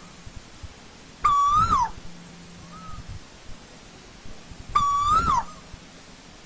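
Asian koel calling: two loud single calls about three and a half seconds apart, each holding level, rising slightly and then dropping. A faint short note sounds between them.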